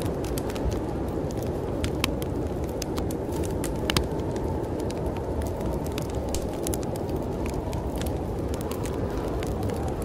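Wood fire crackling with irregular sharp pops, the loudest about two and four seconds in, over the steady low rush of snowstorm wind.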